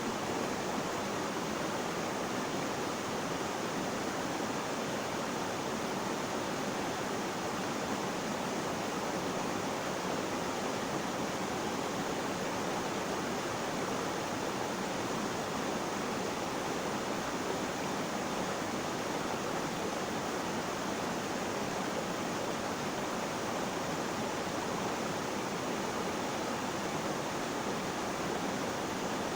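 Water flowing with a steady, unbroken rushing that does not change in level.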